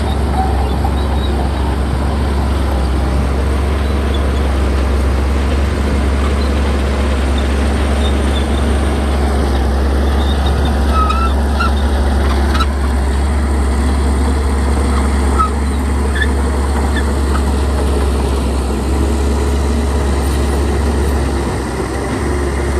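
Heavy diesel earth-moving machinery running steadily: a loud, deep, unbroken rumble, with short high squeaks scattered through it.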